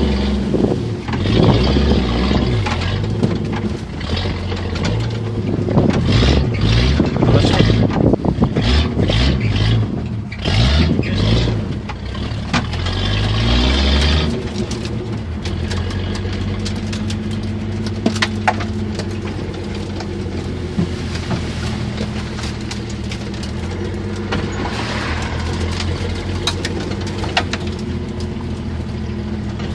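1977 Jeep CJ5 engine working off-road, revving up and down with knocks and rattles over rough ground for about the first half, then running more steadily.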